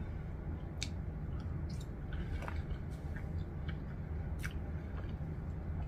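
Mouthful of Jollibee spaghetti being chewed: faint, soft, wet mouth clicks scattered over a steady low hum.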